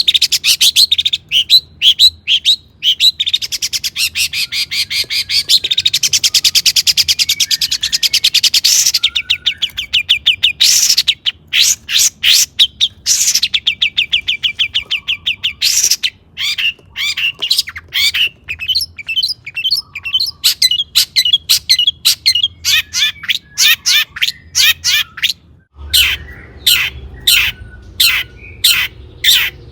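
Long-tailed shrike singing a loud, varied song of rapid chattering notes and fast trills, a song filled with phrases imitated from other birds. Partway through comes a short pause, and near the end the background hum changes as a new passage starts.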